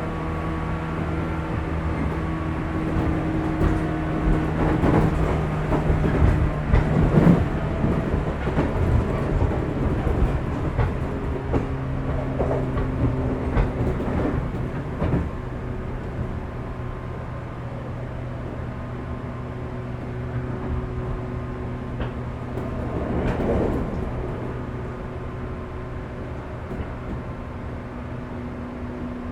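Interior running sound of a 415-series electric multiple unit, heard inside a motor car. The traction motors hum in steady tones that drop in pitch about seven seconds in, over a constant rumble. Wheels clack over rail joints, loudest in the first half and again briefly near the end.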